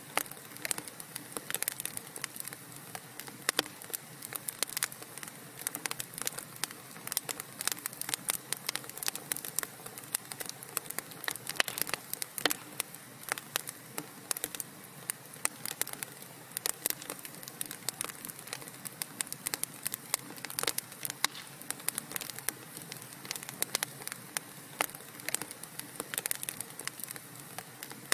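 Wood fire in a fireplace crackling: a steady faint hiss with many sharp, irregular pops and snaps, several a second.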